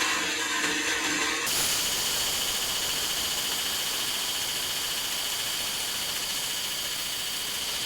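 A steady, even hiss, strongest in the high range with a faint thin whistle in it, cutting in abruptly about one and a half seconds in.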